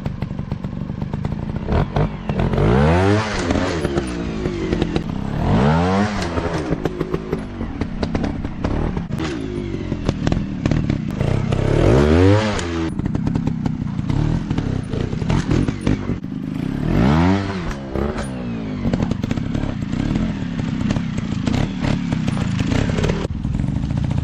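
Dirt bike engines revving, the pitch rising and falling again about five times, with clattering and knocks throughout.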